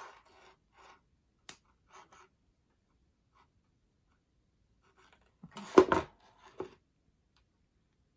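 Small metallic clicks and scrapes of pliers working a sterling silver jump ring closed, with a short cluster of louder clicks about five and a half seconds in.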